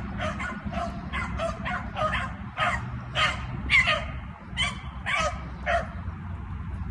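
Beagles baying in a string of short, repeated barks, about two a second, that stop about six seconds in. This is hound voice on a rabbit's trail during the chase.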